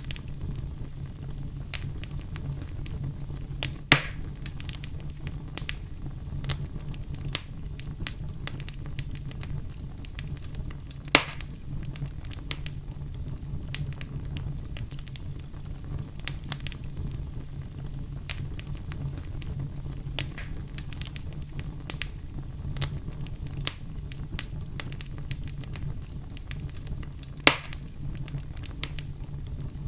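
Fireplace fire crackling softly over a steady low rumble, with frequent small snaps and three louder pops: about four seconds in, about eleven seconds in, and near the end.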